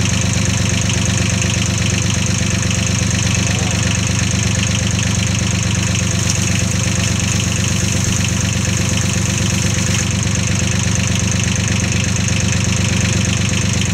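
Tractor engine idling steadily with an even beat, left running to cool down.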